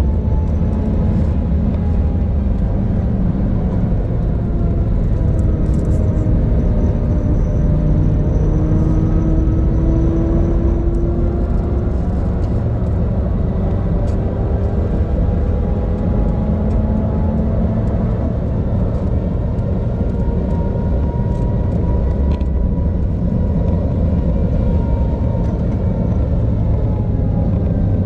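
Audi TT RS's turbocharged inline-five engine pulling hard in fifth gear at around 4,000–5,000 rpm, heard from inside the car over heavy wind and tyre rumble at high speed. The engine note drifts slowly down and back up in pitch, and falls as the throttle is lifted near the end.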